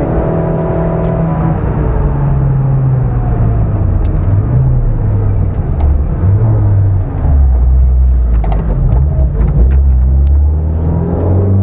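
Opel Corsa A GSI rally car's four-cylinder engine heard from inside the cabin. The engine note drops in steps as the car slows and stays low for a few seconds, then rises again near the end as it pulls away.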